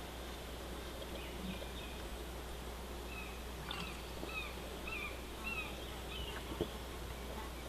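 A bird giving a series of short, sliding calls, about two a second and strongest midway, over steady outdoor background noise with a low rumble. A single sharp click sounds near the end.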